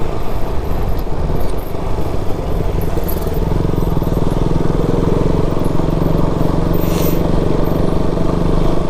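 Single-cylinder motorcycle engine running at a steady cruising speed under a riding camera, with a low wind rumble on the microphone.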